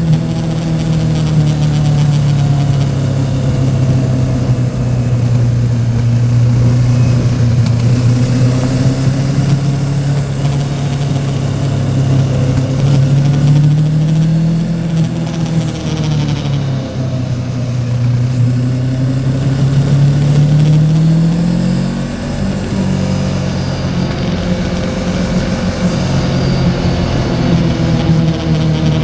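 Yamaha Tracer 700's 689 cc parallel-twin engine running under way, its note rising and falling as the throttle opens and closes, with a brief drop about three quarters of the way through.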